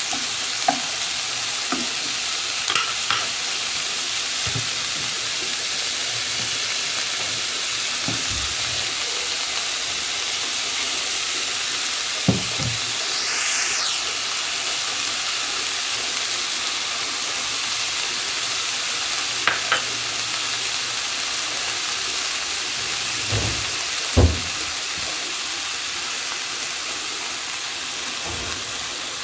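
Food sizzling steadily as it fries in a hot pan while being stirred. A few sharp knocks of the spatula against the pan stand out, with a brief louder hiss about halfway through.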